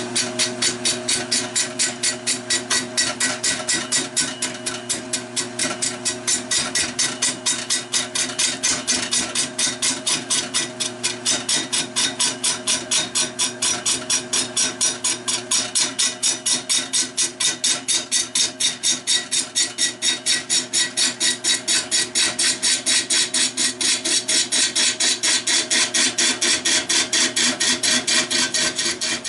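Wood lathe spinning a fatwood blank while a turning tool cuts it, making a fast, even rhythmic chatter over the steady hum of the motor. The cutting stops suddenly near the end.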